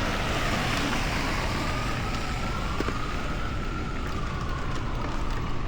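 Emergency vehicle siren wailing, its pitch slowly rising and falling, over a steady rush of street traffic noise.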